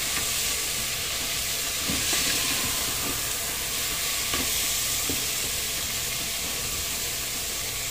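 Soaked rice and moong dal frying with spiced vegetables in an aluminium pressure cooker, sizzling steadily while a wooden spatula stirs and scrapes through the grains, with a few light knocks of the spatula against the pot.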